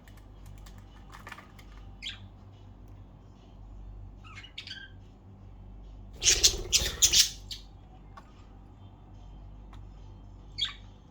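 Pet budgerigars giving short scattered chirps, with a loud burst of harsh squawks about six seconds in and a single call near the end.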